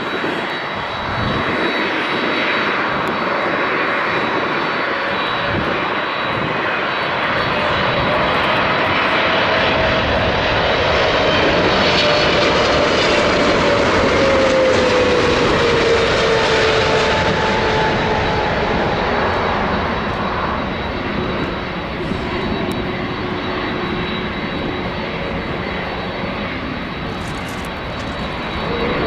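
Boeing 777-300ER airliner's GE90 jet engines running as it comes in to land. The noise builds to a peak about halfway through, with a falling tone as the plane passes, then eases off.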